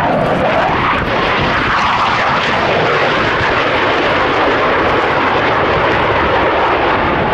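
Loud, steady jet noise from Blue Angels Boeing F/A-18 Hornet fighter jets in flight, with a brief dip and rise in pitch in the first second.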